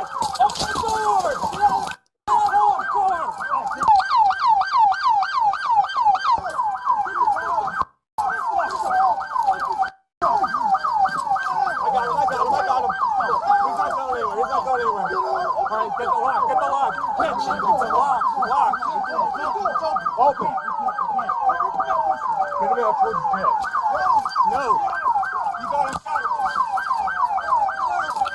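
Several police car sirens sounding at once: fast overlapping yelp sweeps with a slower wail gliding under them. The sound cuts out completely for a moment three times, about two, eight and ten seconds in.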